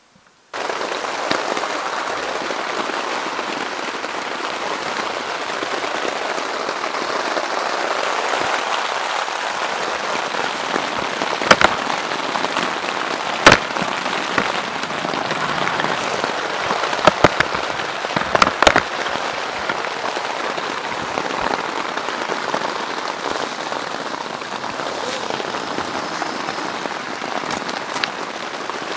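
Steady rain pattering on the fabric of a One Tigris hot tent, heard from inside. The sound starts suddenly about half a second in, and a few sharp, louder drops smack the tent now and then, mostly in the middle.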